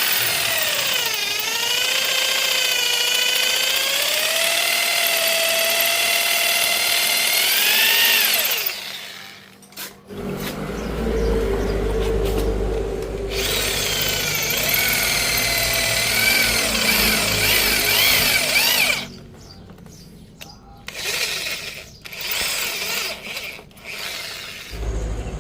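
Electric drill running under load on a rusted exhaust bolt, its whine sagging and recovering in pitch for about eight seconds, then stopping briefly. It runs again with more low rumble for about nine seconds, then in short on-off bursts near the end.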